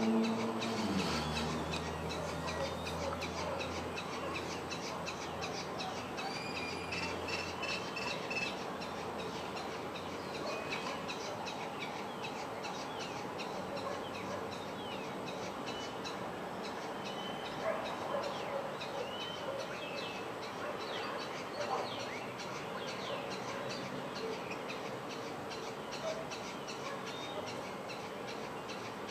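Wild birds calling in a tropical recording: scattered short chirps and whistles over a steady hissing ambience. A low droning tone drops in pitch near the start and fades out over the first several seconds.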